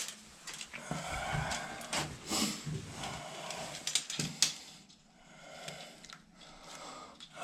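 Scattered light clicks and knocks with rustling in between, the sound of tools and parts being handled in a small room; it grows quieter about five seconds in.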